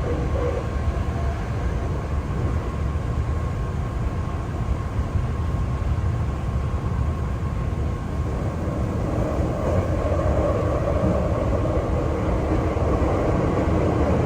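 Hankyu Kyoto Line local train running between stations, heard from inside the car: a steady rumble of wheels on track with a thin steady tone. It grows a little louder from about nine seconds in.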